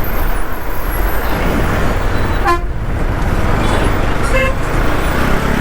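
Steady road and wind noise while riding through traffic, with two short vehicle horn toots, about two and a half and four and a half seconds in.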